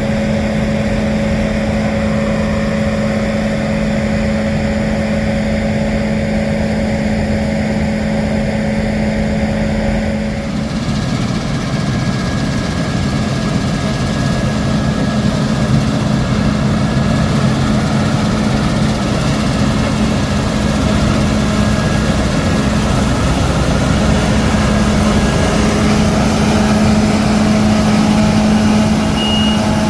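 Diesel engines of combine harvesters and tractors running steadily at work in a wheat field. About a third of the way in the sound changes to a louder, busier engine mix that slowly builds, and near the end a reversing alarm starts beeping at a steady pace.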